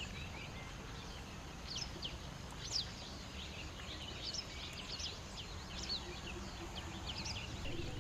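Small birds chirping, many short quick calls scattered throughout, over a steady low background rumble.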